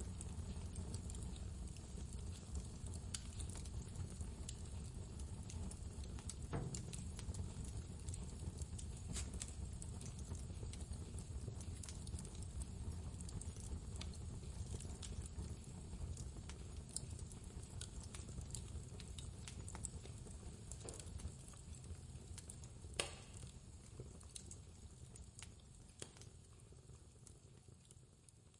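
Wood fire crackling in a fireplace, irregular small pops and snaps over a steady low rumble of blizzard wind. Near the end one louder pop stands out, then the whole sound fades down.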